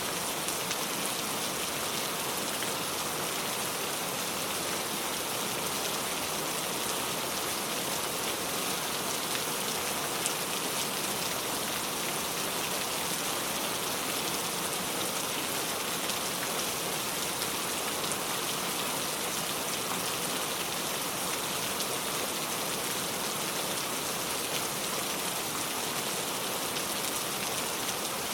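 Steady rain falling, a dense even patter of drops hitting a surface, with no change in intensity.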